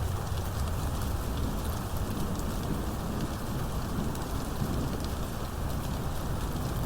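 Steady heavy rain: a continuous hiss with a heavy low end and many sharp drop ticks on top.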